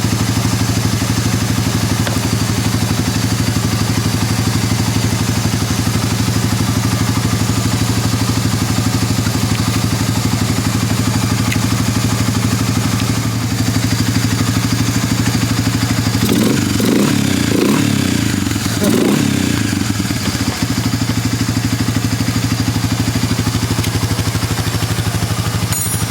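ATV engine running steadily, revved up briefly twice past the middle.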